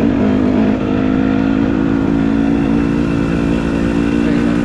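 Dirt bike engine running at a fairly steady pitch, wavering slightly in the first second.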